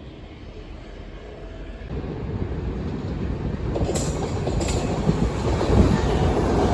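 A train approaching and running past on the rails, growing steadily louder about two seconds in, with wheel clicks over the rail joints from about halfway.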